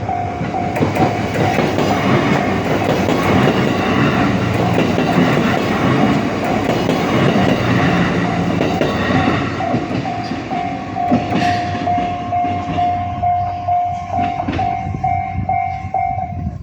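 A train passing over a Japanese railway level crossing, its wheels clattering on the rails, loudest in the first half and then fading. Through it the crossing's electronic warning bell rings in an even repeating ding at about two rings a second, and cuts off suddenly near the end.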